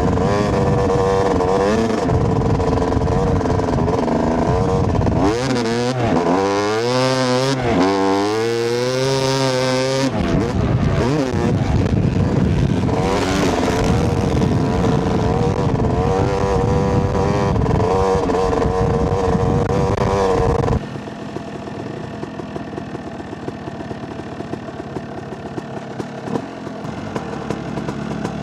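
A two-stroke Yamaha YZ250 dirt bike ridden hard, its engine revving up and falling back again and again as the rider works the throttle and gears, the pitch climbing steeply several times. About three-quarters of the way through, the sound drops suddenly to a quieter, rougher engine note with rushing noise.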